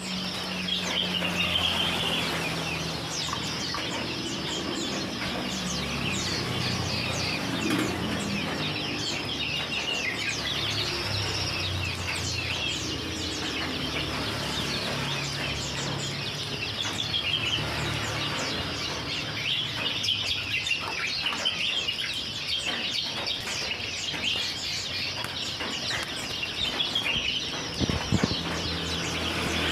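Small birds chirping rapidly and repeatedly, with wings fluttering, over a steady low hum.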